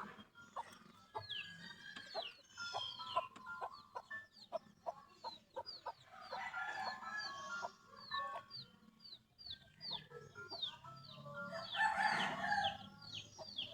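Birds calling: a steady run of short, high, falling chirps a few times a second, with lower clucking calls that grow louder about halfway through and again near the end.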